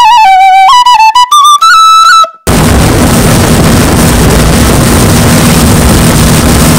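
A flute melody in short stepping notes, cut off about two and a half seconds in. A speedboat's engine then runs at speed, a steady hum under a loud rush of wind and water.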